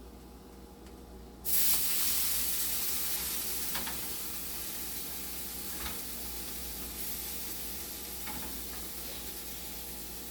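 Hot oil in a frying pan suddenly starts sizzling loudly about one and a half seconds in as food goes into it, then slowly settles to a steady sizzle. A few light utensil taps come through the sizzle.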